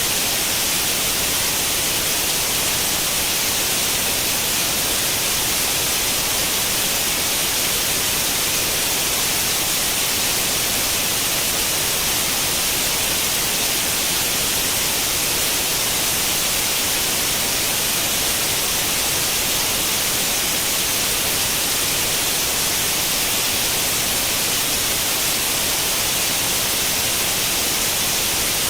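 Steady white noise in the manner of an old CRT television's static with no channel tuned: an even, unchanging hiss, strongest in the upper range.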